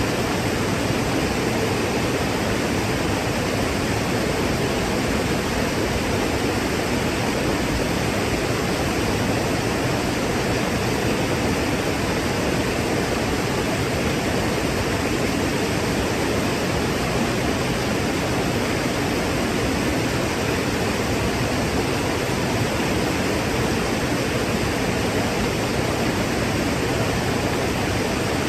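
Waterfall: falling water crashing steadily, a loud, unbroken rush with no letup.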